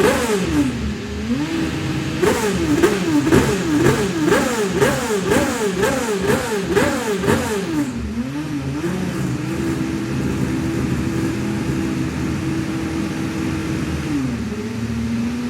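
Honda HSV-010 GT race car's V8 engine blipped once, then revved in a quick series of about eight sharp blips, each rising and falling, before settling back to a steady idle. Near the end the idle drops a little lower.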